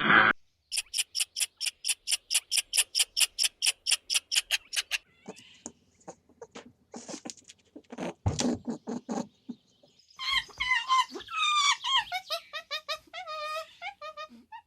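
Animal calls: a fast run of high-pitched squeaks, about seven a second, for about four seconds. After that come scattered shorter calls, then a string of pitched calls that fall in pitch near the end.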